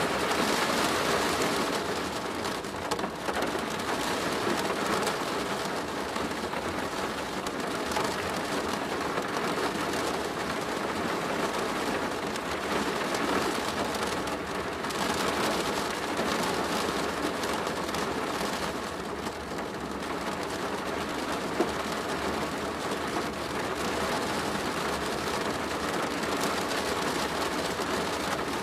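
Rain falling on a plastic roof: a steady patter that swells and eases every few seconds, with the odd sharper drop standing out.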